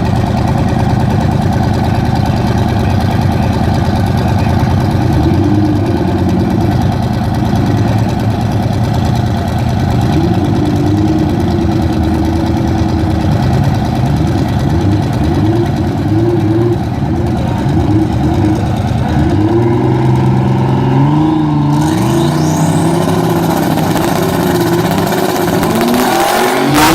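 Twin-turbo 6.0 L LQ4 V8 drag car running at a low, wavering idle, its revs climbing later on. A rising whistle comes about twenty-two seconds in, and a few sharp cracks near the end.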